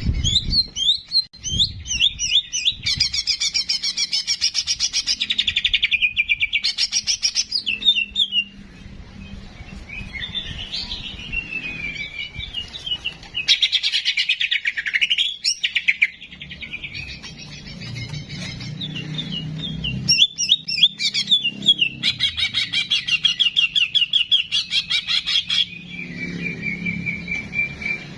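Cucak jenggot (grey-cheeked bulbul) singing: loud bouts of rapid trilling and chattering notes, broken by short pauses, over a faint low hum.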